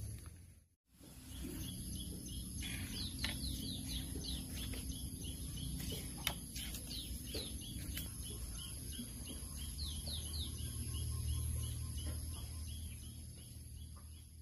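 Small birds chirping in a rapid series of short, falling chirps over a low steady rumble. The sound cuts out briefly about a second in.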